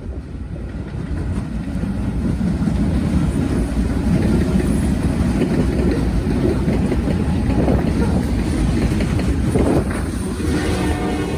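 Norfolk Southern freight train rumbling on the main line, growing louder over the first few seconds and then holding steady.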